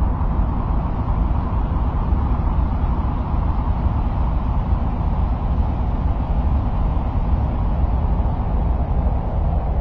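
Steady, unchanging noise offered as the sound of Mars: a deep rumble under a muffled hiss, with no breaks or changes.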